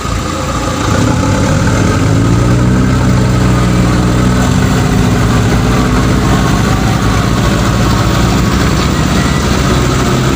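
Truck engine running hard and steady, getting louder about a second in and then holding.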